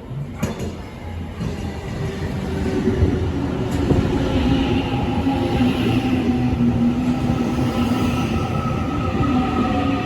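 New Intercity Fleet electric multiple unit running into the station, growing louder over the first few seconds, then holding steady. Its traction motors give a steady whine of several tones over the rumble of the wheels, with a couple of sharp clicks.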